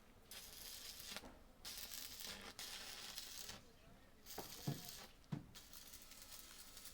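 Electric arc welding in short runs: several bursts of crackling hiss, each about a second long, with brief pauses between them and two dull knocks around the middle.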